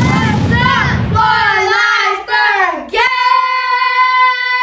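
A child's voice singing, with the pitch wavering and sliding down, then holding one long, very steady note from about three seconds in.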